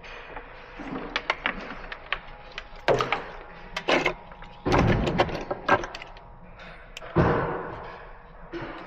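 A run of sharp clicks and knocks, with two heavier thuds about five and seven seconds in.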